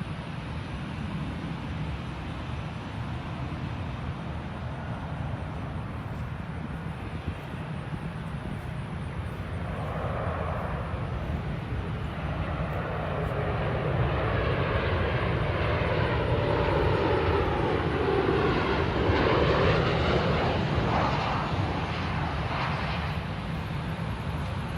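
Boeing 737-700 jet airliner on landing approach, its CFM56-7B turbofan engines growing from about ten seconds in to a loud whine and rumble. Around twenty seconds in, the engine tones slide down in pitch as it passes, and the sound then begins to fade.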